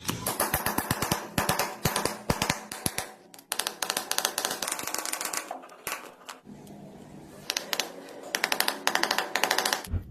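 Fast runs of sharp mechanical clicking and tapping in irregular bursts, with a quieter low hum partway through.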